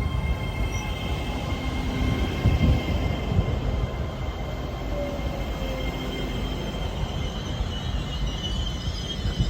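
A train running slowly through the station: steady rumble of wheels on rail with a steady high wheel squeal and a few knocks over rail joints about two to three seconds in. The squeal wavers higher near the end.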